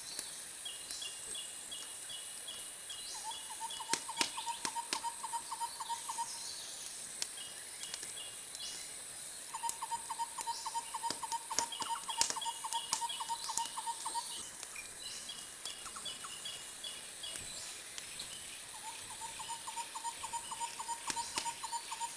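Wood fire crackling with scattered sharp pops, over runs of rhythmic chirping calls, about four pulses a second, that start and stop every few seconds.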